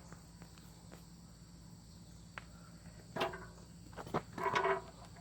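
Crickets chirping steadily, with a few knocks and a short clatter between about three and five seconds in.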